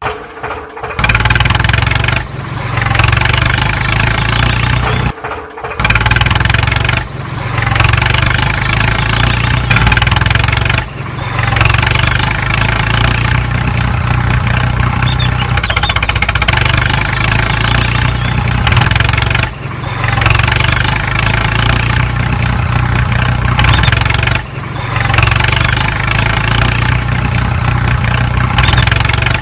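Vehicle engine running and revving hard, broken by short gaps every few seconds.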